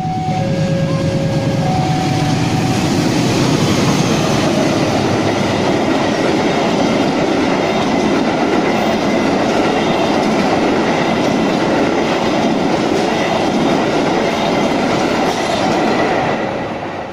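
Long diesel-hauled express passenger train passing close by at speed, its wheels clattering over the rail joints in a loud, steady rumble that builds over the first few seconds and begins to fade near the end. A level-crossing warning bell rings in two alternating tones at the start.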